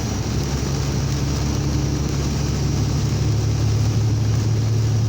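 Semi truck's diesel engine droning steadily, heard from inside the cab, over a steady hiss of heavy rain and wet road; the engine note drops a little about three seconds in.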